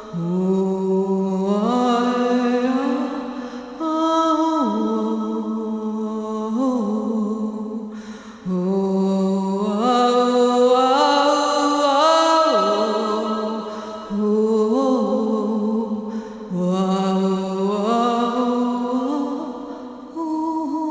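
A single voice chanting wordless long held notes that slide up and down between pitches, in phrase after phrase with short breaths between them.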